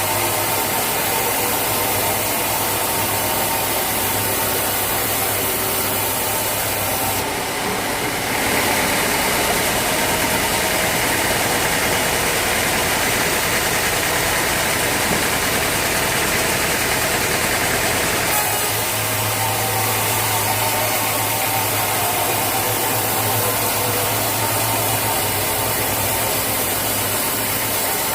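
Sawmill engine running steadily. For about ten seconds in the middle, a louder, higher-pitched noise joins it and then drops away.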